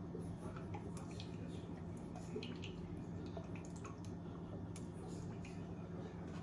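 Light drips and small scattered clicks of liquid going into a glass as a drink is mixed, over a steady low hum.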